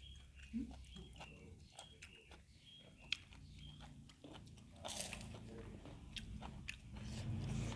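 Close-up eating sounds: chewing with scattered small crunchy clicks from bites of food, and one louder crunchy rustle about five seconds in.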